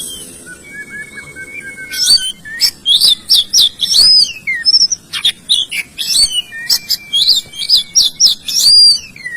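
A songbird singing: a few faint thin whistles, then from about two seconds in loud, fast runs of high chirps and sweeping notes, repeated in phrases until just before the end.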